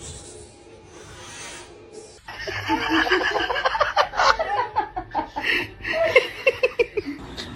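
A person laughing. The laughter starts about two seconds in and breaks into quick, repeated bursts near the end.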